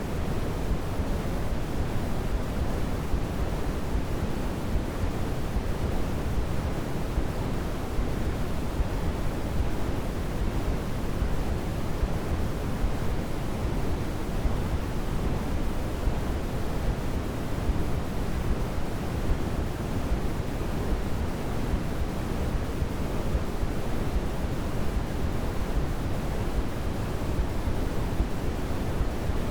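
Steady, unchanging white-noise sleep sound, weighted toward the low end so it comes across as a soft rush rather than a bright hiss.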